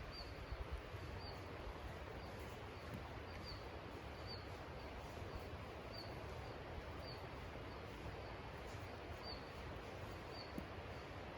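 A bird calling with a short, high chirp about once a second over steady background hiss.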